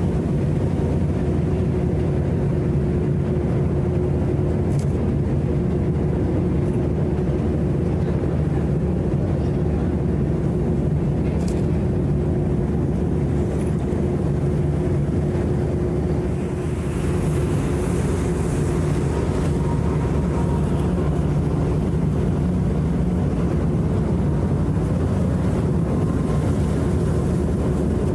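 Sightseeing icebreaker pushing through drift ice: a steady low drone from the ship's engines with a constant hum, and a brief rushing hiss about seventeen seconds in.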